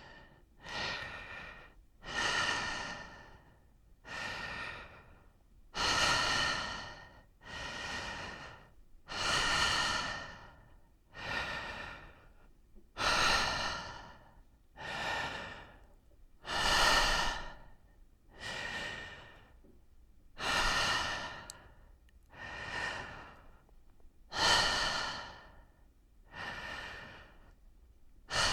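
A person breathing in and out slowly and evenly, each breath a soft airy rush. Louder and softer breaths alternate, making about one full in-and-out cycle every three to four seconds.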